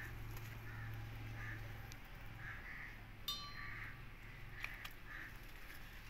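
Short bird calls repeating every half second or so, over a steady low hum, with one sharp metallic click about halfway through.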